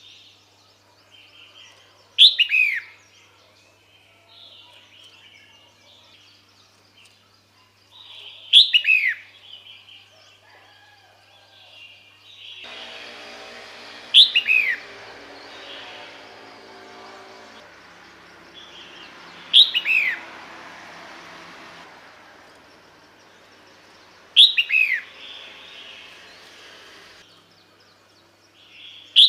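Female red-whiskered bulbul calling: short, sharp notes that sweep downward in pitch, each call repeated about every five seconds, six times. It is a call that draws males to come.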